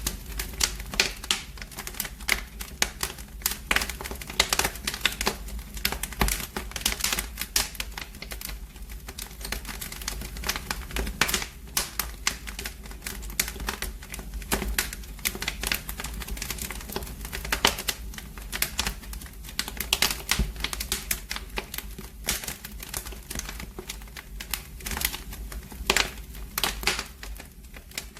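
Wood fire crackling in a fireplace: dense, irregular snaps and pops.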